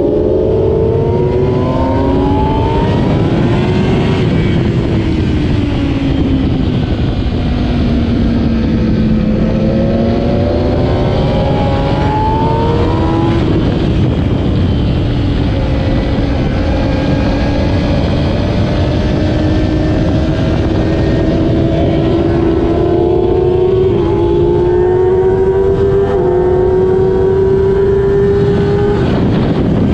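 2008 Kawasaki ZX-10R's inline-four engine at racing speed. The engine note falls over the first several seconds, climbs again with a gear change, rises slowly through most of the rest, and drops sharply near the end, all under constant wind rush.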